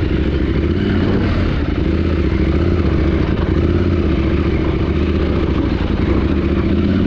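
Motorcycle engine running steadily with a slightly uneven pulse.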